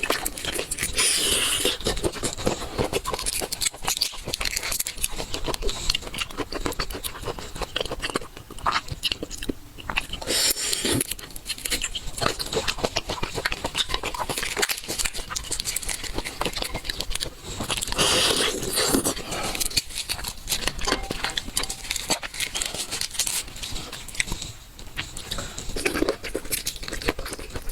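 A person eating seafood up close: chewing and crunching with many sharp clicks, and louder hissing bursts about a second in, around ten seconds in and around eighteen seconds in.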